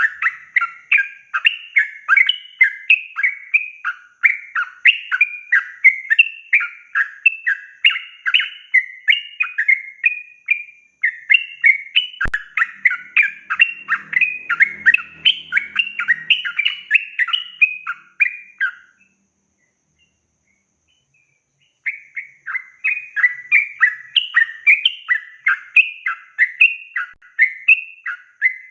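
A yellow-vented bulbul singing a long, rapid run of short chattering notes. The song breaks off for about three seconds near the two-thirds mark, then starts again. A single click about twelve seconds in.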